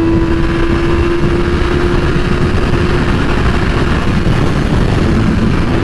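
2008 Yamaha R6's inline-four engine running at a steady high-pitched note, climbing slightly and then holding, under heavy wind rush buffeting the microphone at highway speed.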